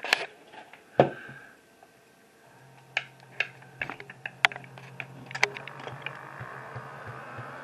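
Clicks and knocks as an N-scale 44-ton switcher locomotive is handled on the track, then from about two and a half seconds in its small motor running with a steady low hum and gear whir, with a few sharp ticks over it. Only the rear truck's gear is turning; the front truck's gear is not spinning.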